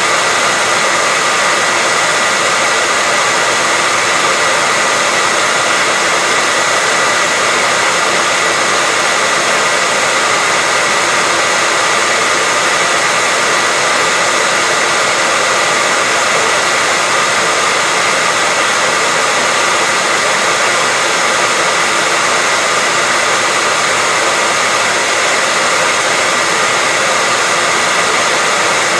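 Hairdryer running continuously at a steady speed: an even rushing air noise with a faint steady whine from its motor.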